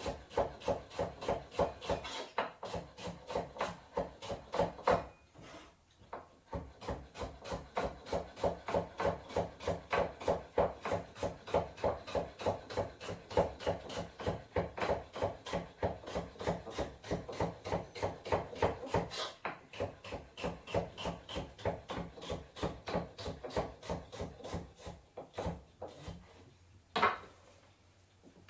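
Knife chopping vegetables quickly on a wooden cutting board, about five strokes a second, with a short pause about five seconds in. The chopping stops near the end, followed by a single louder knock on the board.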